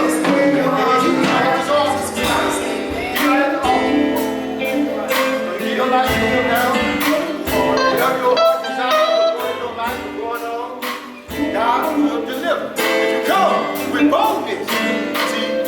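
Gospel music played by a band, with guitar, a steady drum beat and singing.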